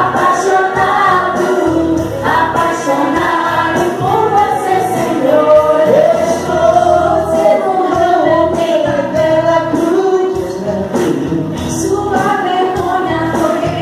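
Gospel worship music: a group of voices singing together with instrumental accompaniment and a steady beat.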